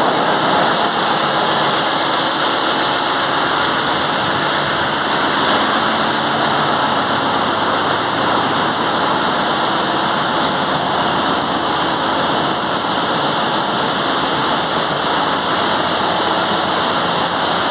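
Steady, loud din of a bulk carrier's engine-room machinery running, with the even roar of diesel engines and pumps and no change throughout.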